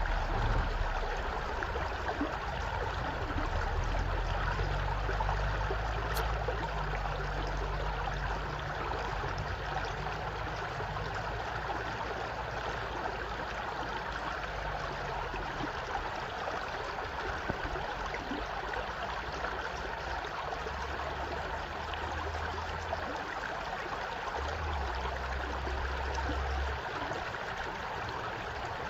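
A stream flowing steadily, an even rushing of water, with a low rumble that comes and goes underneath.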